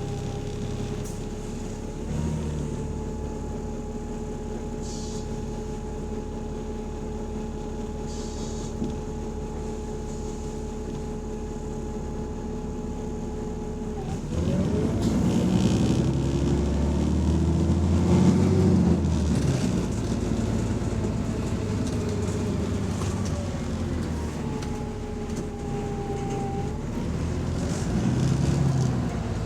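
Double-decker bus engine idling with a steady low pulse and a whine. About halfway through it pulls away, and the engine gets louder and climbs in pitch before easing off near the end.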